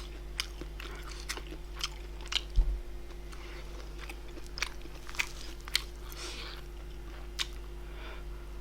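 A person chewing food close to the microphone: scattered sharp mouth clicks and smacks at irregular intervals, with a low thump about two and a half seconds in.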